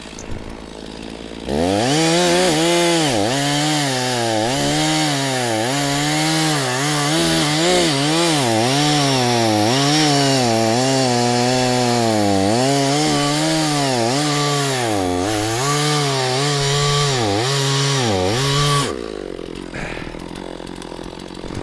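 Stihl MS460 two-stroke chainsaw revved up about a second and a half in and cutting into a large firewood round. The engine pitch dips and recovers again and again as the chain bites under load, and it drops back to idle near the end.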